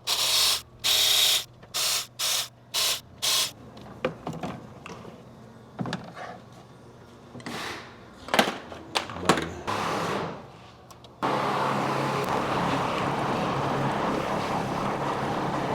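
A powered ratchet running in about six short bursts, unbolting the engine's oil filter housing. Then scattered clicks and knocks of tools on metal. About eleven seconds in, a steady even noise starts abruptly.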